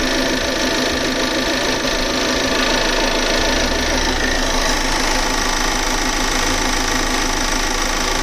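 Volvo V60 B5's four-cylinder turbo petrol engine running steadily with a fast, fine rattling tick, which the owner traces to somewhere around the fuel pipe and is unsure is normal.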